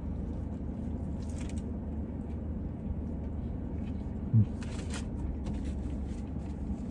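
A man chewing a big bite of a crispy fried chicken sandwich, with faint crunches, over a steady low hum inside a car. About four seconds in there is a brief low 'mm' from his voice.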